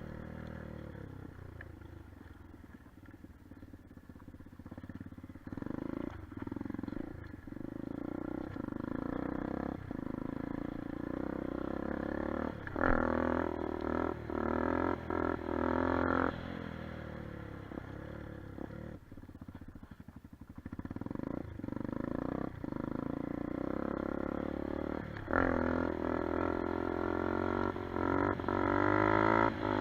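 Kuba Black Cat motorcycle engine running and being revved. There are a few short blips of throttle, then two longer revs, one about halfway through and one near the end, with the pitch climbing and falling back to idle.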